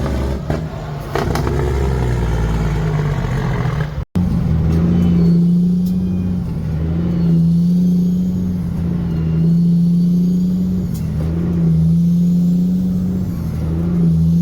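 Truck engine running with a steady low note, swelling and easing every couple of seconds. The sound drops out abruptly for a moment about four seconds in.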